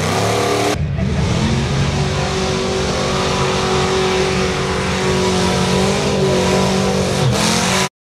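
Mega truck engine running hard at high, fairly steady revs during a mud race. The sound changes abruptly just under a second in and cuts off suddenly near the end.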